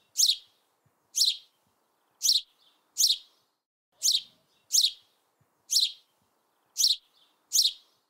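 A bird chirping: a short, high note sliding downward, repeated about nine times at roughly one-second intervals.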